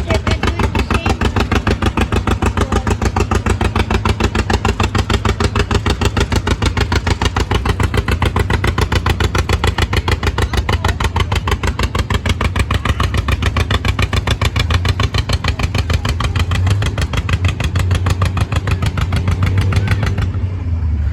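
Tractor engine running loud, with a rapid, even pulsing beat and a strong low rumble; the sound thins out about twenty seconds in.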